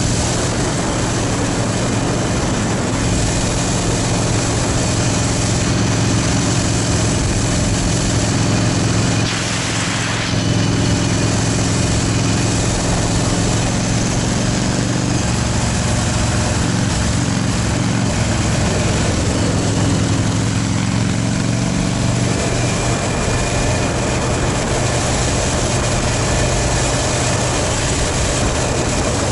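Yamaha motorcycle engine running steadily under way, with a dense rushing noise over it; the engine note shifts to a different pitch about halfway through.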